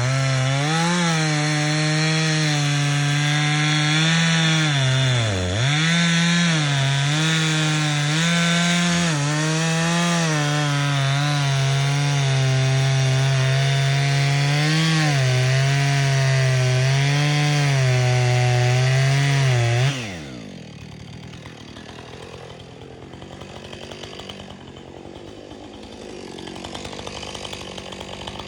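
Chainsaw running at high revs while cutting through a tree trunk, its pitch sagging and recovering as the chain loads in the wood. About two-thirds of the way through, the engine winds down with a falling pitch and the sound drops to a much quieter level.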